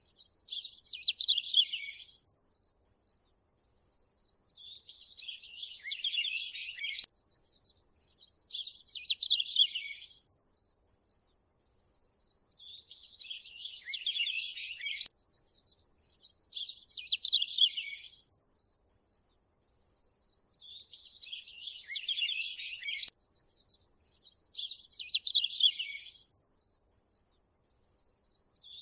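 Birds chirping in short clusters of calls over a steady high-pitched hiss. The same pattern of calls comes round about every eight seconds.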